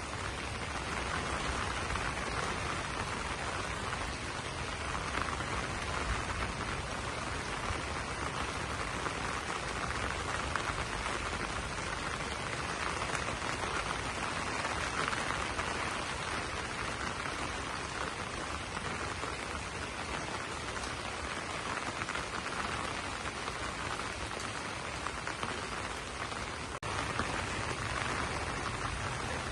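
Steady rain falling on banana leaves, a dense even patter that swells and eases slightly, with a brief dip about three quarters of the way through.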